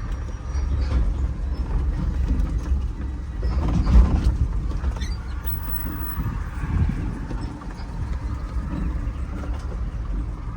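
Mini dump truck on the move, heard from inside the cab: a steady low rumble from the engine and road, with creaks and knocks as the cab rides over bumps. The loudest jolt comes about four seconds in.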